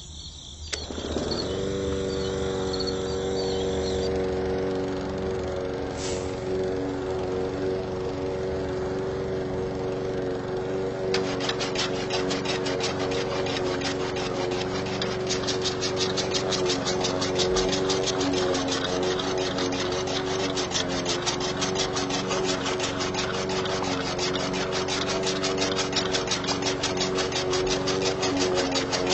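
A small motor spins up about a second in and then runs steadily with an even hum. From about eleven seconds a fast, fine rattling joins it and carries on.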